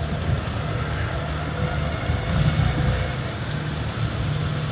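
Road traffic: a steady low rumble of vehicle engines passing.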